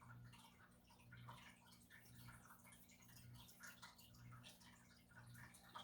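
Near silence: faint room tone with soft scattered ticks and a low hum that swells about once a second.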